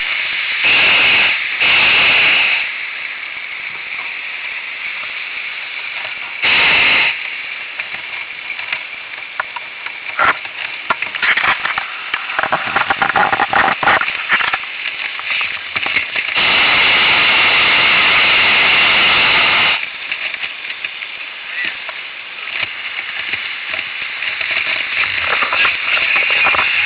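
Hot air balloon propane burner firing in blasts that start and stop abruptly: two short ones at the start, another about six seconds in, and a longer blast of about three seconds past the middle. Between the blasts there is crackling and rustling noise with scattered clicks.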